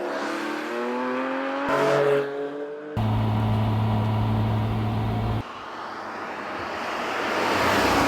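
Porsche 718 Boxster GTS 4.0's 4.0-litre flat-six engine: first accelerating with its pitch rising through the revs, then abruptly a steady low drone, then a swelling rush of engine and road noise that builds towards the end, as when the car approaches.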